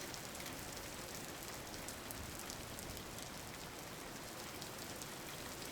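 Steady rain falling, an even hiss of rain on a surface with no single drops standing out.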